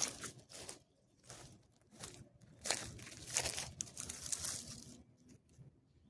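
Dry material crunching and rustling in irregular bursts, loudest in the first second and again from about two and a half to four and a half seconds in, then dying down.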